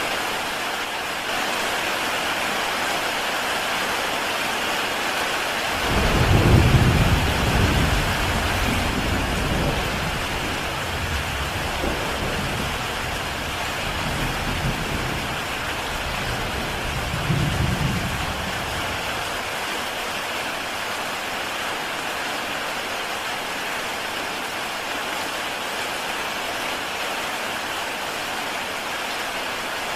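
Heavy rain falling steadily on a tile roof, an even hiss of drops. About six seconds in a roll of thunder breaks in, rumbles on with a second swell some ten seconds later, then fades.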